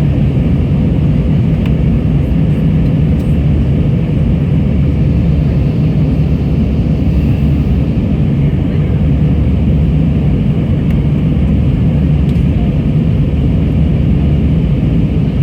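Steady low roar of an airliner in flight heard from inside the passenger cabin: engine and airflow noise, unchanging throughout.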